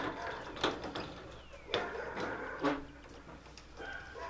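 A handful of separate clanks and knocks from tools and metal go-kart parts being handled and set down during work on the kart.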